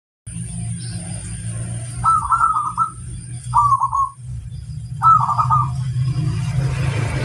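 Zebra dove (perkutut) song: three short phrases of rapid stuttering coos, over a steady low hum.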